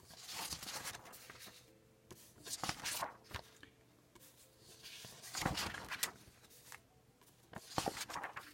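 Paper rustling and handling: several short, separate rustles as the pages of a book are handled and turned.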